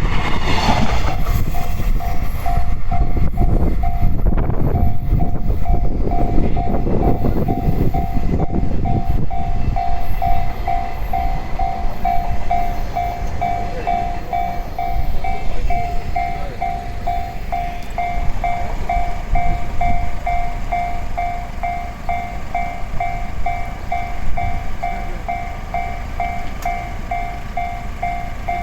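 A train running past over the level crossing, a heavy rumble with wheels clattering on the rails, easing off toward the end. Over it the level-crossing warning bell rings steadily, about two strokes a second.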